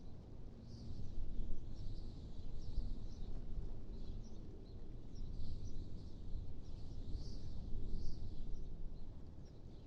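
Wind blowing in gusts that swell and ease every few seconds, with short, high bird chirps scattered through it.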